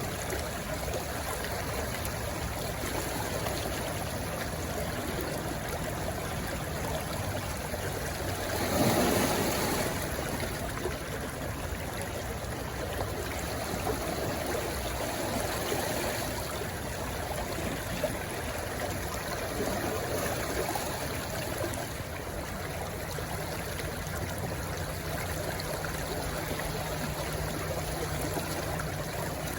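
Stream water rushing and trickling steadily where it flows into the sea, with one louder rush of water about a third of the way in.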